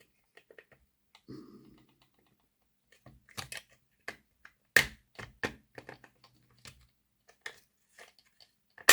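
Small irregular clicks and taps of plastic and metal parts of a Hornby OO gauge model locomotive being handled and clipped back into place, the sharpest click near the end.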